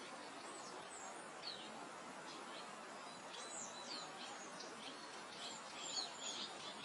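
Small birds chirping in short, high, quick notes over a steady soft wind. The chirps come thickest about halfway through and again near the end.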